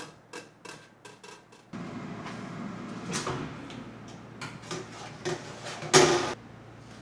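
Kitchen handling sounds: a run of light clicks and knocks from utensils and dishes, with one louder clatter about six seconds in.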